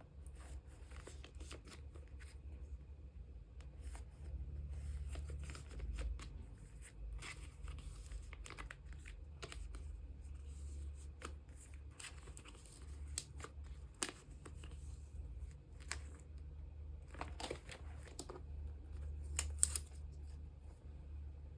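Photocards and clear plastic card sleeves being handled: a string of soft rustles, crinkles and light clicks as cards are slid into sleeves and the sleeves are handled, with a louder cluster of crinkling near the end.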